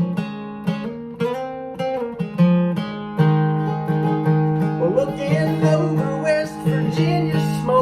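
Strummed acoustic guitar playing a country tune, with a voice beginning to sing about five seconds in.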